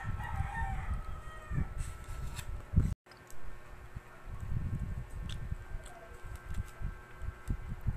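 Close-up eating sounds: chewing and mouth noises from a burger and French fries, with irregular low rustles and knocks and a few sharp clicks. A short wavering high-pitched sound runs through the first second and a half, and the sound drops out briefly about three seconds in.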